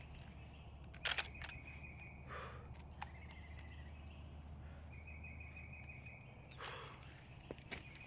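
Quiet woodland ambience: a small songbird's steady high trill repeating several times, each about a second long, with a few sharp rustles and knocks from leaves and brush.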